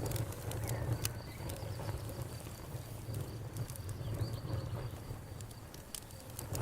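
Campfire crackling: scattered sharp pops and snaps over a low steady rumble of burning wood.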